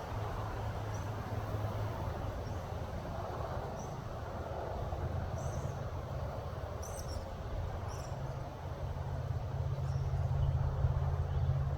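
Short, high bird chirps repeating about once a second, thickest in the middle, over a steady low rumble.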